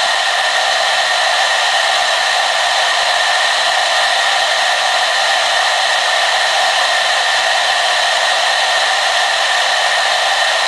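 Hair dryer running steadily on one setting: an even airy rush with a faint steady whine in it.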